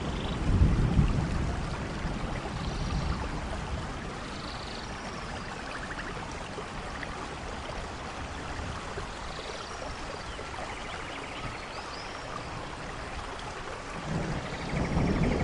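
Steady rain hiss with a low rumble about half a second in and again near the end, and a few faint high chirps.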